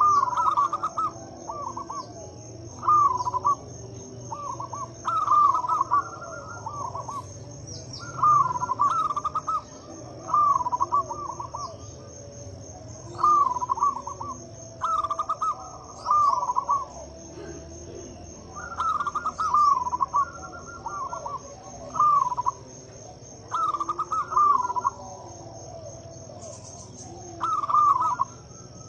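Zebra dove (perkutut) cooing: short phrases of quick cooing notes, each about a second long, repeated every two to three seconds. A steady high insect trill runs underneath.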